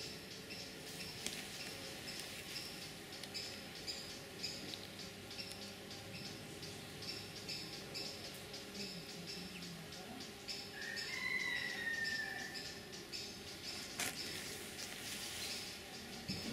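Outdoor birdsong: short high chirps repeated over and over, with one longer falling call about eleven seconds in. A single sharp click comes near the end.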